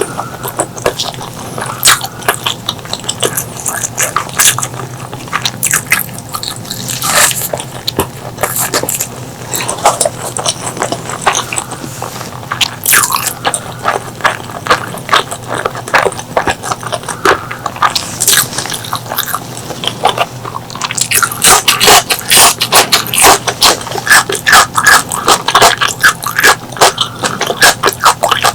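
Close-miked eating of pork leg curry and rice: wet chewing and lip smacks, with a dense, fast run of sharp smacks from about two-thirds of the way through.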